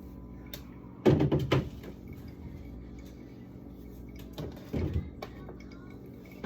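Knocks and clatter of containers being handled and set down in a refrigerator: a quick run of loud knocks about a second in, and another pair of knocks near the end.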